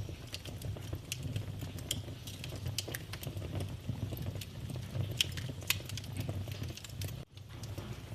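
Wood fire in a fireplace crackling: irregular sharp pops and snaps over a steady low rumble of the flames, with a brief gap near the end.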